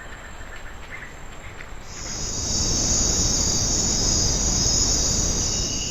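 Insects calling in chorus, a steady high-pitched buzz that comes in and grows loud about two seconds in, over a steady rushing noise. A few faint chirps sound in the first two seconds.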